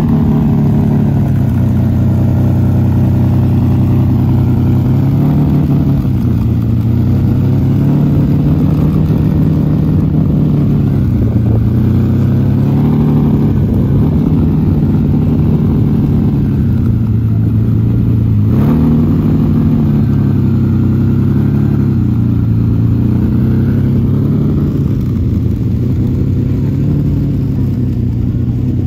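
Lamborghini Countach's V12 running at low revs as the car creeps along at walking pace, with a few short throttle blips that briefly raise the pitch.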